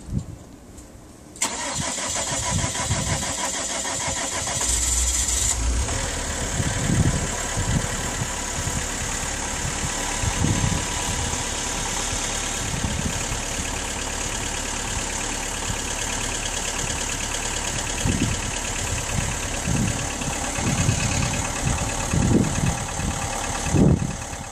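Chevrolet Cruze diesel engine starting from cold at about −20 °C: it fires suddenly about a second and a half in, runs briefly louder a few seconds later, then settles into a steady, rapidly ticking diesel idle.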